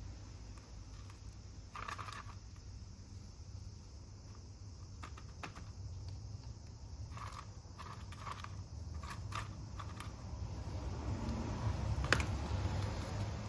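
Scattered light clicks and taps over a steady low rumble, with one sharper click about twelve seconds in.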